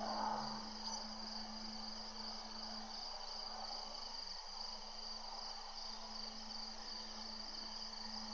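Steady night chorus of crickets, a continuous high trill, over a low steady hum and faint hiss from the webcam microphone. There is a brief louder swish at the very start.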